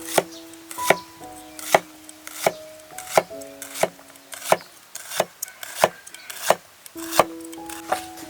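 Knife chopping on a wooden cutting board in even strokes, about one every 0.7 seconds, over background music.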